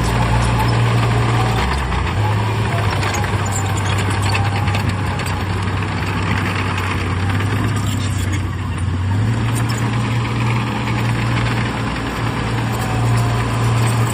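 Heavy diesel engine of earthmoving machinery running steadily. The engine note dips about two seconds in and rises again around nine seconds, as the load changes.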